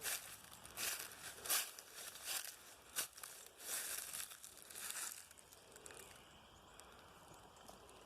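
Footsteps crunching through dry leaf litter, about one step every three-quarters of a second, stopping about five seconds in; a faint steady high buzz, like insects, stays on after that.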